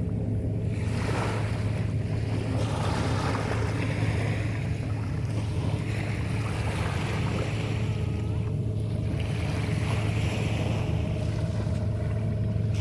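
A steady low engine hum, like a boat's motor running, under the noisy wash of water and wind that swells and fades every few seconds.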